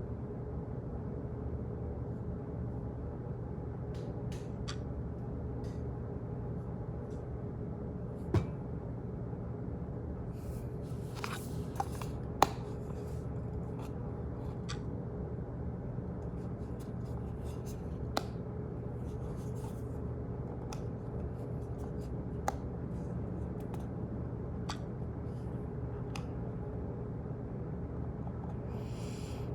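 Office ambience: a steady low hum of room noise, with scattered irregular clicks and taps and a few brief rustles. The sharpest knocks come about 8 and 12 seconds in.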